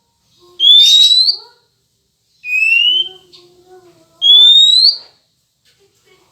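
A kacer lure whistle: three clear upward-sliding whistled notes, each under a second, with short gaps between them. The middle note is pitched lower than the other two. It is the repeated call used to prompt a male Oriental magpie-robin to answer and sing.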